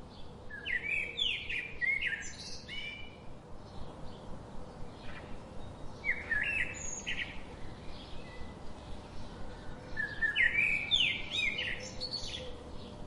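A songbird singing three bursts of quick, sharp chirped phrases, one near the start, one midway and one near the end.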